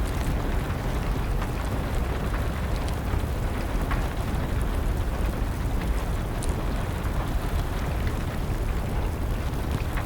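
Wood fire crackling, with scattered sharp pops every second or two, over a steady rush of rain.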